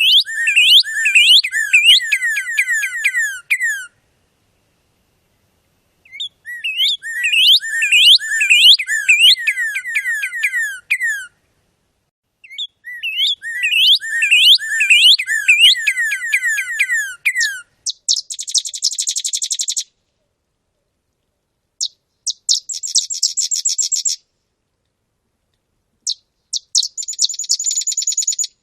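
Songbird song, cleanly recorded: three phrases of rapid repeated down-slurred whistled notes, then three short buzzy trills.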